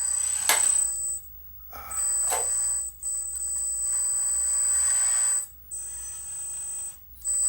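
Radio-controlled excavator being worked: its electric drive gives a high, steady whine in spurts of one to two seconds that start and stop as the control sticks are moved, with a couple of sharp clacks along the way.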